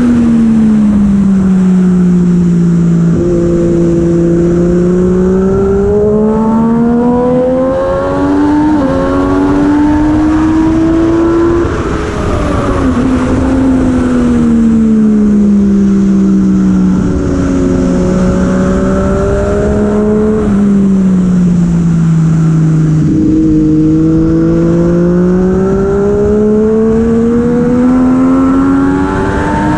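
Superbike engine at racing speed, its revs climbing through the gears with quick shifts and dropping away under braking several times over, with a steady rush of wind throughout.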